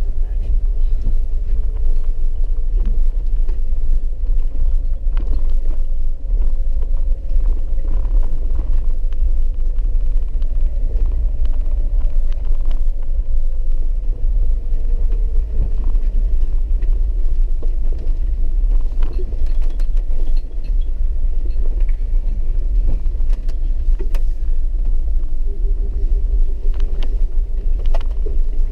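Four-wheel-drive vehicle driving slowly on a rough dirt trail, heard from inside the cabin: a steady low rumble of engine and tyres, a faint drivetrain whine that drifts slowly in pitch, and scattered light clicks and knocks.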